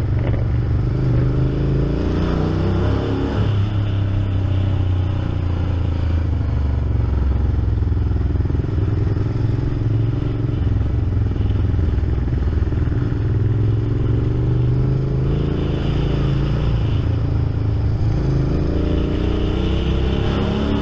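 Honda VTR1000's V-twin engine heard from on board the motorcycle, running steadily under way. Its pitch climbs as the bike accelerates, about two seconds in and again near the end.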